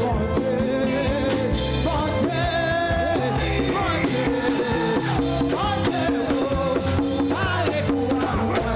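Live church band music with a steady drum beat and bass, and a singer's voice over it.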